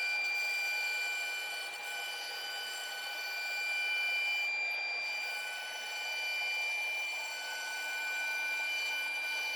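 CNC router running, with a steady high whine from its spindle and motors; some of the tones drop out and return as the machine moves.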